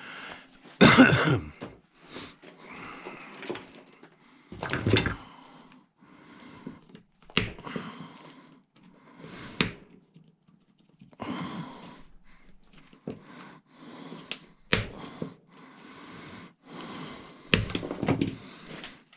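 Scrap wire and metal pieces being rummaged and pulled out of a bucket: rustling with irregular clunks and knocks, the loudest about a second in, about five seconds in and near the end.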